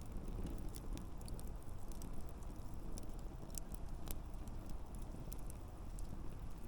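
Wood campfire burning: irregular crackles and pops from the burning logs over a steady low sound of the flames.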